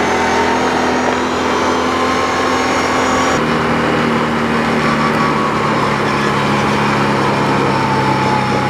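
Dirt bike engine running steadily under way on a trail ride. Its note changes about three and a half seconds in, and a faint whine rises and falls above it.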